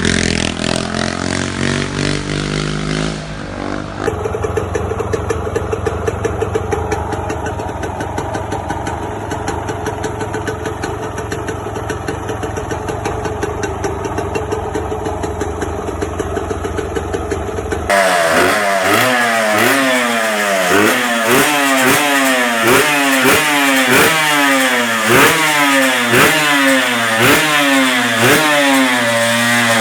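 Motorcycle engines in three back-to-back clips: the first two idle steadily, then past the halfway point another is revved over and over, its pitch rising about once a second.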